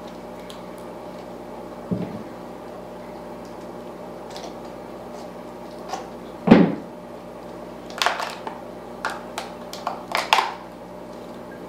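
Plant packaging being handled: scattered knocks and clicks over a steady hum. The loudest is a single thump about halfway through, followed by a quick run of clicks later on.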